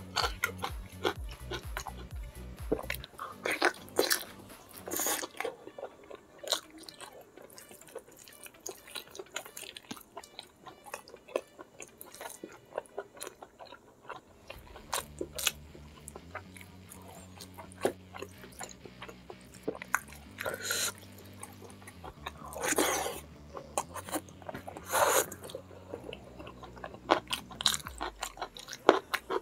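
Close-miked eating: wet chewing and lip smacking from mouthfuls of spicy fish-head curry and rice eaten by hand, with a few louder crunchy bites. Quiet background music with a low bass line runs underneath.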